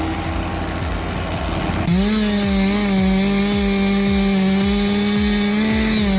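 Two-stroke chainsaw revving up about two seconds in and then running at a steady high pitch at full throttle, as in a cut. Before it, a steadier machine hum.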